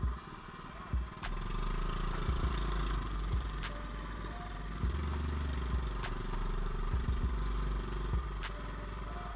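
Small single-cylinder mini bike engine running during a trail ride, with short knocks and rattles from the bike going over rough ground.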